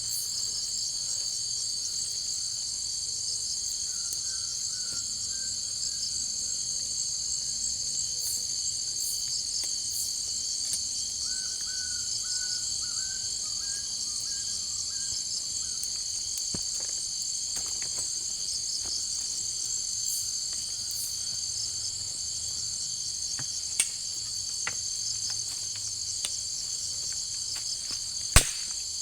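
Steady shrill chorus of jungle insects, with a faint warbling call twice in the first half and a few sharp knocks, the loudest one just before the end.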